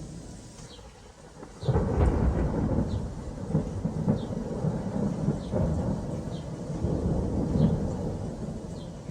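Thunder sound effect from a vintage sound-effects record: a clap breaks suddenly just under two seconds in and rolls on as a long low rumble, over a steady rain-like hiss. Faint record clicks recur about once a second.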